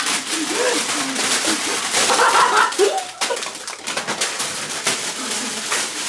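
A young child's low, wordless murmuring and humming, with crackling and rustling noises throughout.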